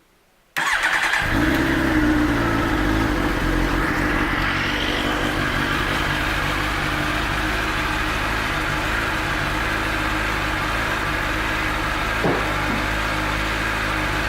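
2013 Suzuki GSX-R1000's inline-four engine starting: near silence, then about half a second in the starter cranks briefly, the engine catches and settles into a steady idle.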